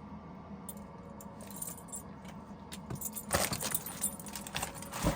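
Small metal objects jingling and clinking, with scattered knocks: sparse at first, a busy cluster a little past halfway, and a sharp knock near the end.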